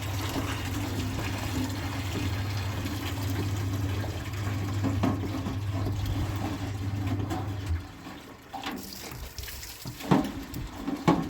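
Washing machine running with water churning and a steady motor hum; the hum cuts off suddenly about eight seconds in, leaving quieter water sounds and a few knocks near the end.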